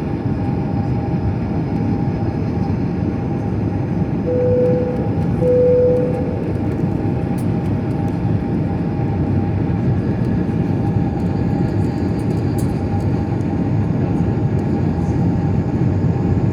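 Steady cabin noise of an airliner in flight: engine and airflow noise heard from inside the cabin. About four seconds in, two short chime tones sound at the same pitch.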